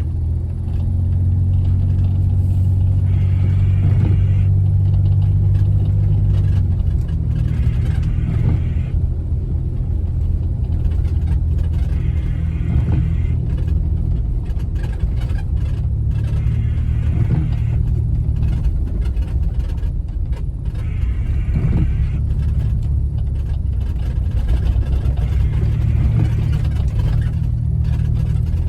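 Jeep Wrangler's engine droning low at a slow trail pace through deep snow, heard inside the cab, with tyre noise swelling and fading every few seconds.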